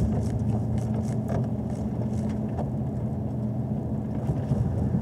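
A car's engine running steadily at low revs, about 2,000 rpm in second gear, heard from inside the cabin at around 20 mph on wet pavement. A few light ticks sound in the first couple of seconds.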